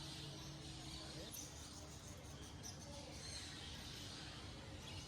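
Faint chirping and twittering of caged birds over a low steady background hum.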